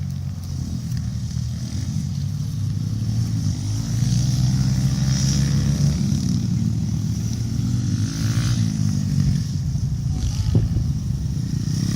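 Pit bike engines running during a race. One bike's engine rises in pitch about four seconds in and falls away a few seconds later as it revs past.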